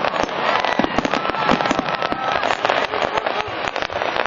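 Fireworks display: a dense, continuous crackle of many rapid bangs and pops, with a few faint whistles among them in the first couple of seconds.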